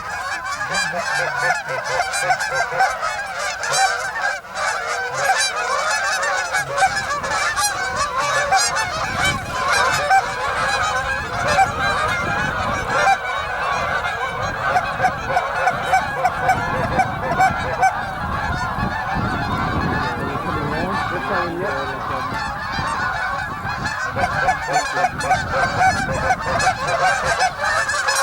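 A large flock of geese honking continuously, many birds calling over one another in a dense, unbroken din.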